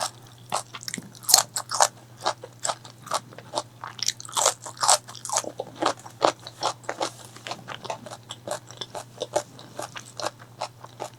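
Close-miked biting and crunching of crispy fried chicken, a quick irregular run of sharp crackly crunches with wet chewing between them. The crunches are loudest a little over a second in and again around four to five seconds in.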